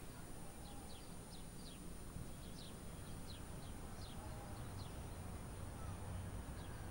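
Small birds chirping in trees: about ten short, quick chirps that sweep downward, scattered irregularly over a low steady background rumble.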